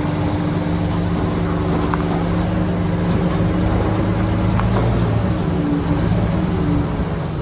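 Heavy earth-moving machine's diesel engine running steadily, with a few faint clicks over it and a slight change in engine pitch about five seconds in.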